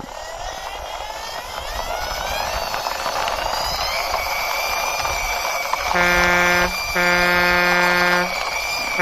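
A rushing engine-like noise that builds and rises in pitch, then a truck horn honking about six seconds in: a short toot followed by a longer blast.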